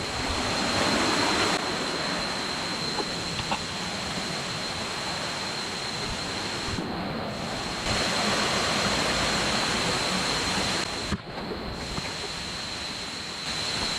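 Steady rush of a jungle river and waterfall, with a thin high-pitched tone held throughout. The loudness shifts a few times, with a brief dip about eleven seconds in.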